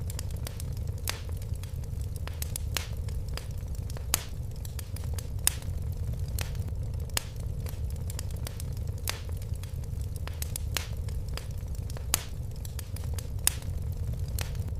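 Fire crackling in a fireplace: irregular sharp crackles and pops over a steady low rumble of the flames, with a few louder pops.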